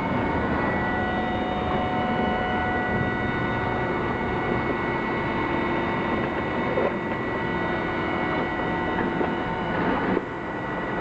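Star JNC-32 CNC lathe running, a steady mechanical hum and whine with several high steady tones. The level dips slightly about ten seconds in.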